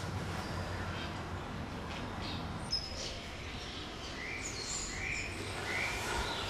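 Birds chirping over a steady low hum of room noise: short high chirps at first, then a run of short chirps about one a second. One sharp tick a little under three seconds in.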